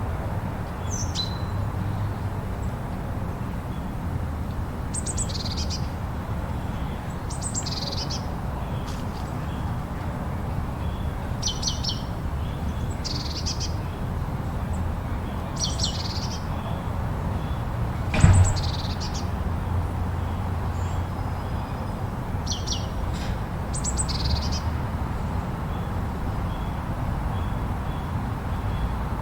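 Steady low rumble of blizzard wind with a bird calling throughout, short high chirps in pairs about every two to three seconds. A single sharp knock about eighteen seconds in.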